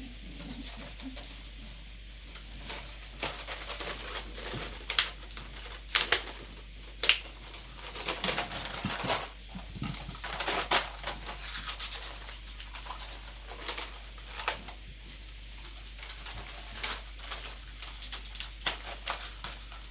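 Loose M6 metal screws being handled and sorted out of their packaging: scattered sharp clicks, the loudest three about five, six and seven seconds in, with rustling between.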